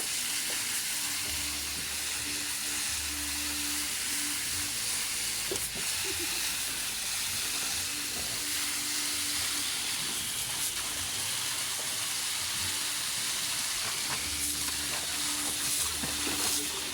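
Steady hissing noise, with a faint low hum that comes and goes.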